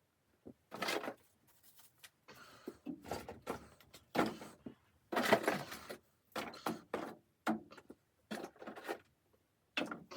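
Irregular knocks, scrapes and rustles from objects being handled, each lasting a fraction of a second to about a second, with short pauses between.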